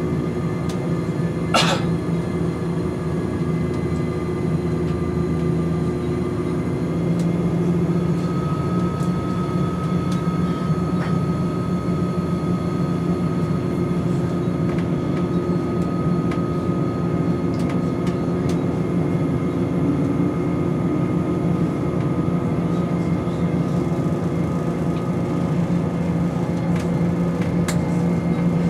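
Class 170 Turbostar diesel multiple unit heard from inside the carriage, running along the line: a steady engine and transmission hum under rail noise, with a high whine. The whine rises slightly several seconds in and then holds steady. A single sharp click comes about a second and a half in.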